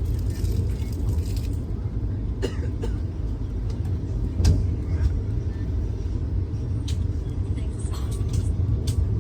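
Vande Bharat train running: a steady low rumble with a few sharp clicks.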